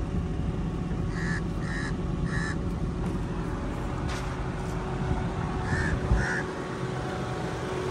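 A bird calling in short calls, three in quick succession about a second in and two more near six seconds, over an engine running steadily with a low rumble. A single low thump comes near six seconds.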